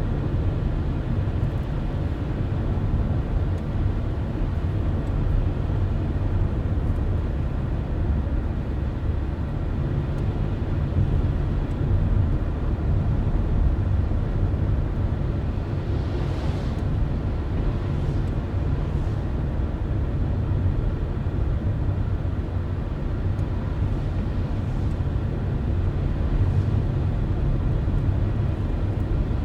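Car driving at a steady speed: a continuous low rumble of road and engine noise that stays even throughout.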